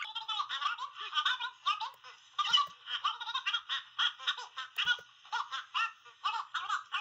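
Rapid, high-pitched giggling laughter that keeps going without a break.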